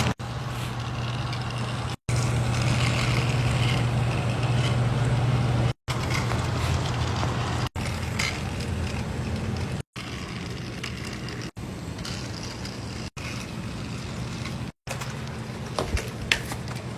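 Small electric motor of a toy train running steadily along the track, a low even hum with rattle on top. The sound drops out for an instant every couple of seconds at edit cuts.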